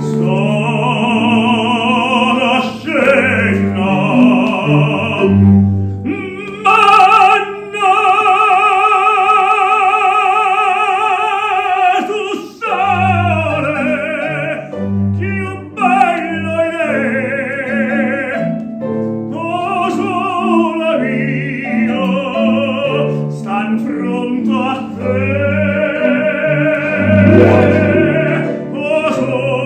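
Classical music: an operatic voice singing with strong vibrato and long held notes, over piano accompaniment.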